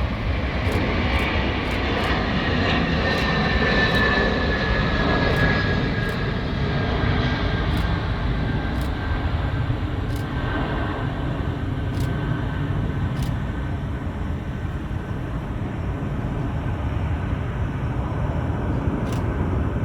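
Antonov An-124 freighter's four turbofan engines at take-off power: a loud, steady rumble with a whine that falls in pitch as the aircraft goes past, the noise easing slightly after the first few seconds.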